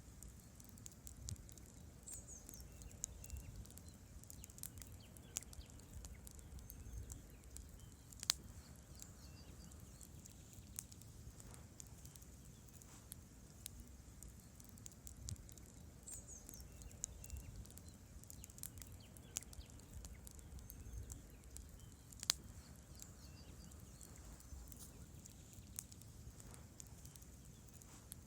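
Wood campfire burning, with scattered sharp crackles and pops of burning logs over a low steady rumble; two pops, about 8 and 22 seconds in, are much louder than the rest.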